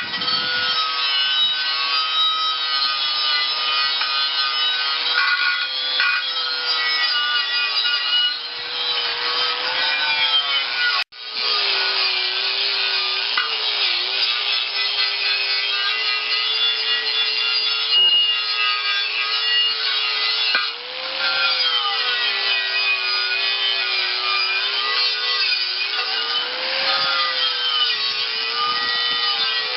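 Power-driven wire brush scouring a steel tractor rim of a 1953 Massey-Harris Pony to clean it: a harsh, steady rasp over a motor whine that sags in pitch now and then as the brush is pressed into the metal. There is a brief break about eleven seconds in.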